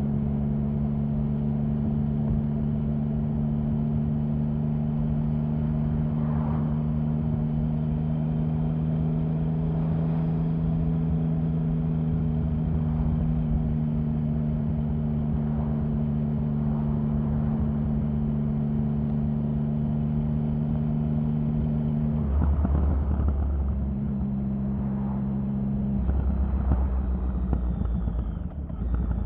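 Triumph Sprint 1050's three-cylinder engine running at a steady note for about twenty seconds, then dropping to a lower, deeper note and shifting twice near the end.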